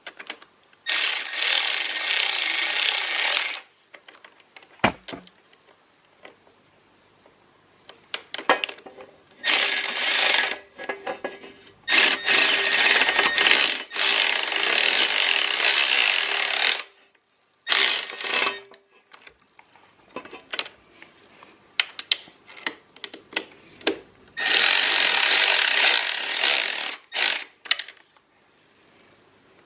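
A handheld power tool, such as a cordless drill or impact driver, running in about five separate bursts of one to five seconds each, tightening down bolts on a Honda CR125 dirt bike. Smaller clicks and tool handling sound between the bursts.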